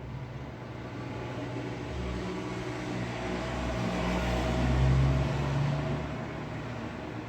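Road traffic with a motor vehicle passing. Its engine and tyre noise build to a peak about five seconds in, then fade back into the steady traffic noise.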